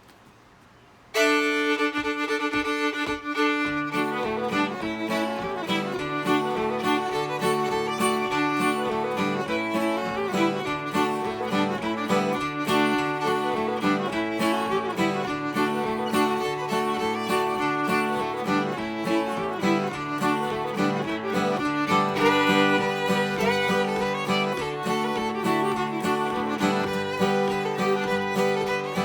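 Fiddle playing a lively fiddle tune in the key of D, starting suddenly about a second in, with an acoustic guitar joining a few seconds later on a strummed, bass-note accompaniment.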